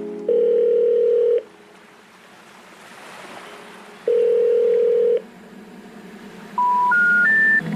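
Telephone line tones: two long steady tones about a second each, a few seconds apart, then three short beeps rising in pitch. The rising three-note figure is the special information tone that comes before an intercept message such as 'number not in service'.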